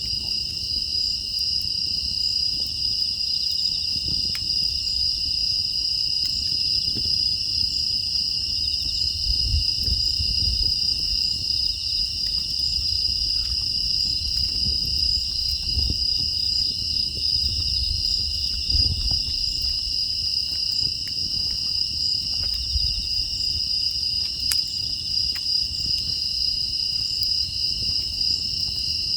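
Chorus of crickets and other grass insects trilling steadily and high. Underneath are faint, scattered crackles of a wood fire and a low rumble.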